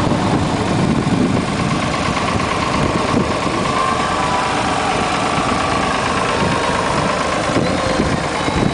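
Tractor engine running steadily at a low idle-like pace.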